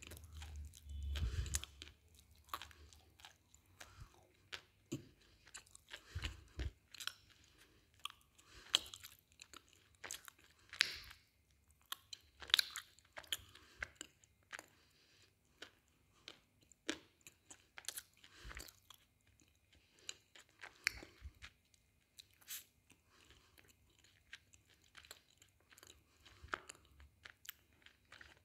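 Close-miked chewing of hard, brittle black slate pencil pieces, with sharp, irregular crunches one to a few times a second. A low bump sounds in the first second or so.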